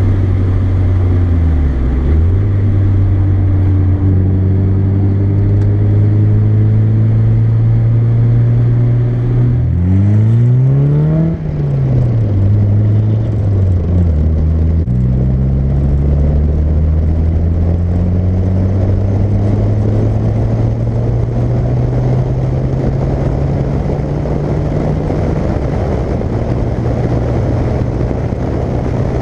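Mazda MX-5's 1.8-litre four-cylinder engine with an aftermarket exhaust, loud while driving. Its note changes with gear shifts about two seconds in and again around the middle, with a quick rev up and back down. After that it pulls steadily, rising slowly in pitch as road noise builds.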